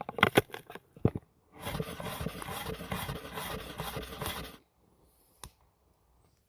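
A few sharp clicks, then about three seconds of quick, rasping scraping strokes, ending with a single click.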